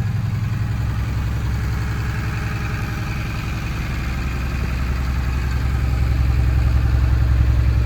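Front engine of a 2009 Blue Bird front-engine school bus idling steadily, heard from inside the bus, growing a little louder near the end.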